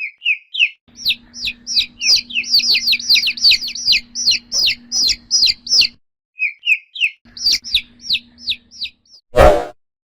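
A domestic chicken chick peeping: many short, high peeps, each falling in pitch, coming in quick runs of about five a second with a short break about six seconds in. Near the end comes a single short, loud burst of noise.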